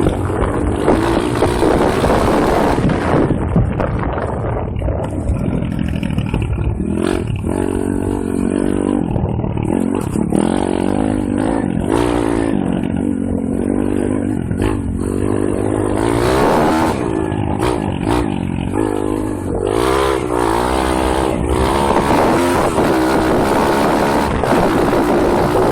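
M2R KX140 pit bike's 140cc single-cylinder four-stroke engine running under riding load, its note rising and falling over and over as the throttle is opened and closed.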